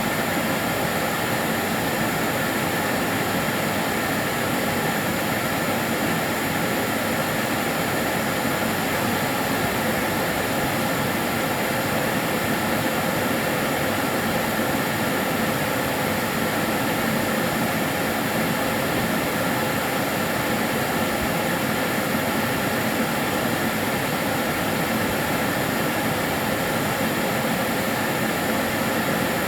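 Karcher DS 6 Premium water-filter vacuum cleaner running steadily: an even, unbroken motor and airflow rush with a faint steady whine over it.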